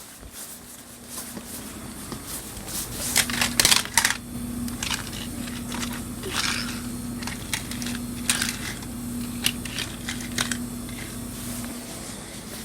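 Small electric toy-train motor running with a steady hum, with clicks and clatter of plastic parts, then switching off about a second before the end.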